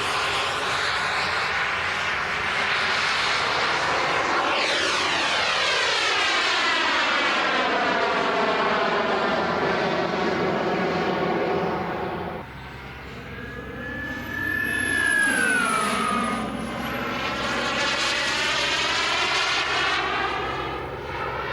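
Turbine-powered RC model jet flying passes, a steady jet rush with sweeping tone changes as it moves across. About twelve seconds in the sound drops, then a high turbine whine swells and falls in pitch as the jet goes by.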